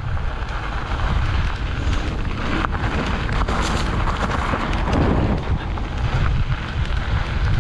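Wind buffeting the microphone of a moving mountain bike rider, a steady low rumble with a few sharp clicks and rattles from the ride.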